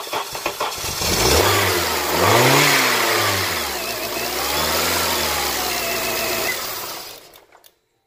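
Honda K24 2.4-litre DOHC i-VTEC four-cylinder engine cranking briefly on the starter and catching about a second in, then revving up and back down twice before cutting off near the end. This is the first start after a timing chain and drive belt replacement.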